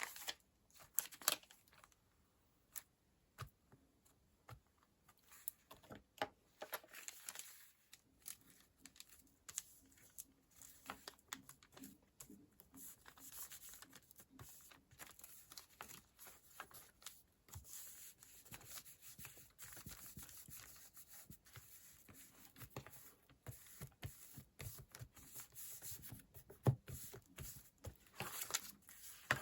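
Close-up paper and sticker handling: short peeling and tearing sounds, rustles and light taps of paper, at a low level.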